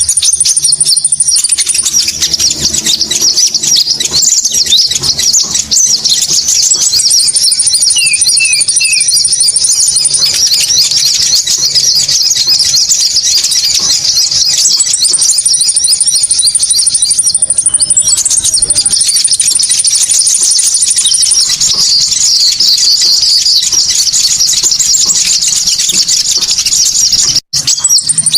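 Recorded Konin bird calls played as a lure: loud, rapid, high-pitched chattering chirps without a break. A thin, buzzy high trill comes in over them for stretches of a few seconds, several times. The sound drops out for an instant near the end, as at a loop or edit point.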